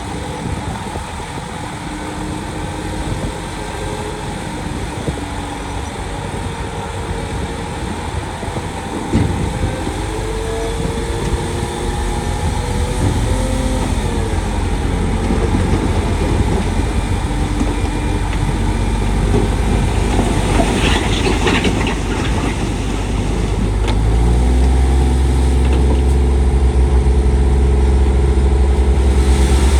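Heavy diesel earthmoving machinery running, its engine pitch shifting as the machine works under load, with a stretch of rattling about two-thirds of the way in. The engine grows louder and deeper near the end.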